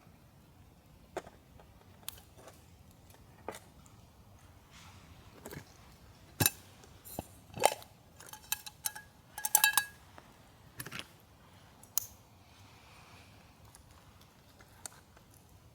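Metal camp cookware and utensils being handled: scattered clicks, taps and clinks, busiest in the middle, with one brief metallic ring a little before the end.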